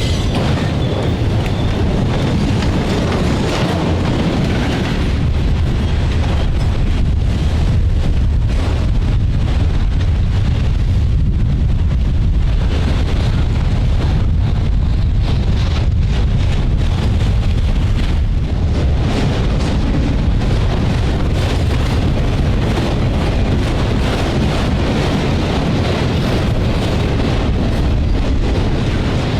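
Freight train passing close by: a steady, heavy low rumble throughout, with wind noise on the microphone.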